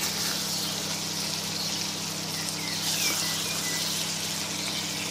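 Okra, capsicum, onion and tomato sizzling steadily in a cooking pot on low heat, a soft even hiss.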